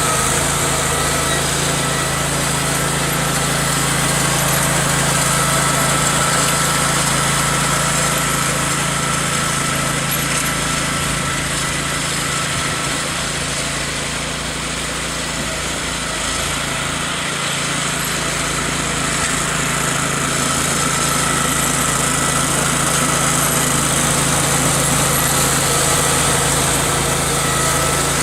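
Small tractor engine running steadily while it drives a snowblower attachment clearing snow, with a steady high whine over the engine hum.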